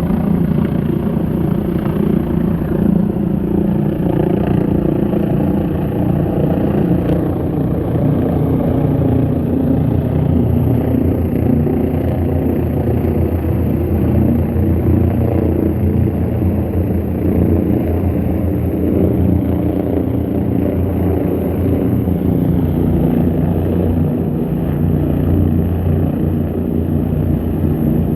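Air ambulance helicopter running close by: a loud, steady low rotor beat over the engine, holding level without change.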